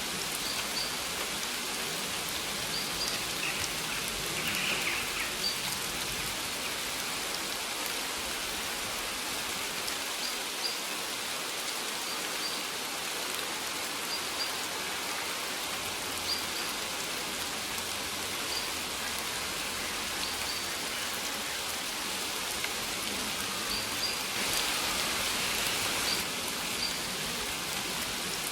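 Steady rain falling on a surface, an even hiss, with short high chirps recurring every second or two and the rain swelling slightly a few seconds in and again near the end.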